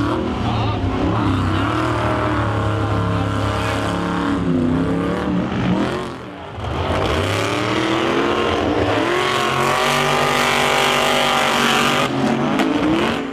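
Monster truck engine revving hard, its pitch climbing and falling in two long runs, with a brief drop in loudness about six seconds in.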